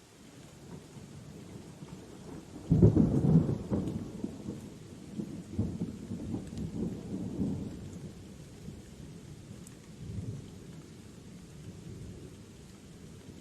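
Steady rain with a sudden thunderclap about three seconds in, rumbling on for several seconds as it fades, and a smaller roll of thunder near the end.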